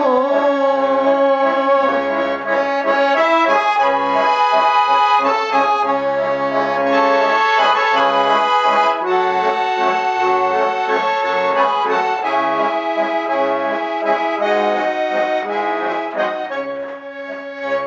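Garmon, a Russian button accordion built by the master Khoroshilov, playing an instrumental interlude between sung verses: a melody over held chords, with short bass notes underneath.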